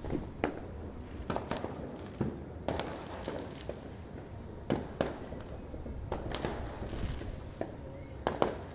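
Fireworks going off: about a dozen sharp bangs and pops at irregular intervals, some in quick pairs, over a steady background hiss.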